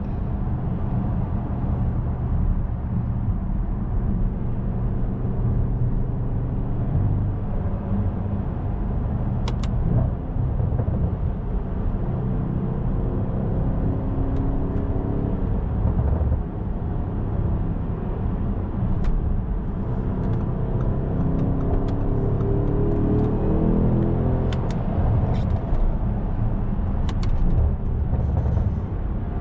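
Audi S7's twin-turbo engine and road noise while driving: a steady low drone, with the engine note climbing in pitch a couple of times as the car accelerates, and a few short sharp clicks.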